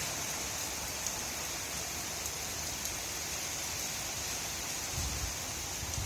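Steady rain from a thunderstorm shower, an even hiss, with a low rumble coming in near the end.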